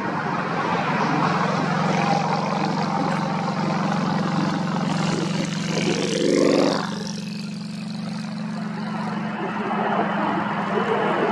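Large jet aircraft engines running, with gusty wind noise over the microphone. The sound grows loudest about six seconds in, then drops with a falling pitch as the jet passes.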